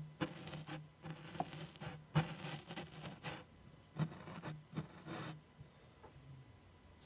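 ASMR scratching and tracing close to the microphone: a run of short, irregular scratching and rubbing strokes on a surface, dying down near the end.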